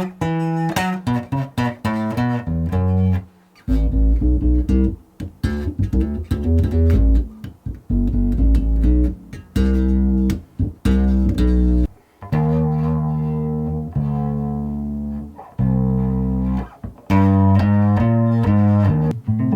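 Electric bass, a '73 Jazz Bass, played through a pedal chain of compressor, octave, drive, a synth pedal giving light chorus and delay, and an envelope filter. It plays a run of short plucked notes with brief gaps, then from about twelve seconds in longer held notes.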